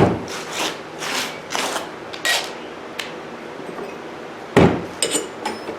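Hand tools knocking and scraping on a mower deck's metal pulley and housing: a sharp metallic clank at the start, a few softer scrapes and rattles, then another sharp clank about four and a half seconds in.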